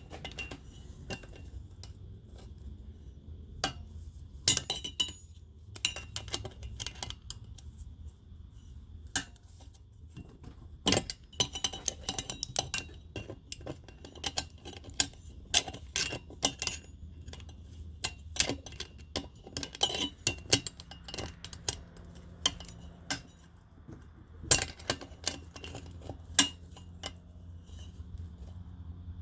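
Metal hand tools clicking and clinking against metal engine parts in irregular sharp taps, over a steady low hum.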